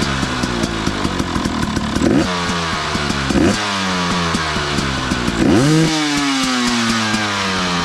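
KTM 300 two-stroke dirt bike engine running on a newly fitted Smart Carb, revved in repeated sharp blips that rise and drop back, with one longer rev about five and a half seconds in that falls away slowly.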